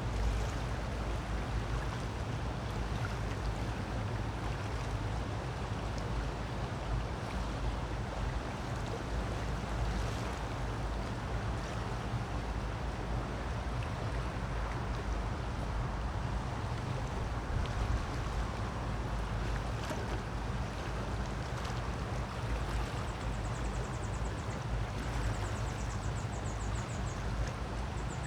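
Creek water running over rocks: a steady, even rushing that does not change.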